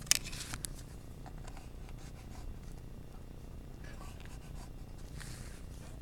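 Graphite pencil strokes scratching on paper, with one louder stroke right at the start and fainter strokes about four and five seconds in.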